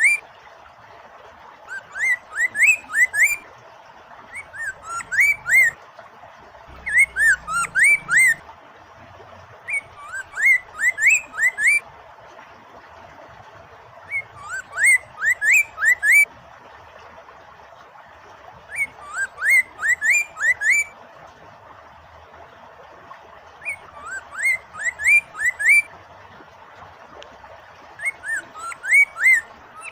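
Poksay mandarin (Chinese hwamei) singing: short phrases of quick rising and falling whistled notes, repeated about every four to five seconds. A steady flowing-water background runs under the song.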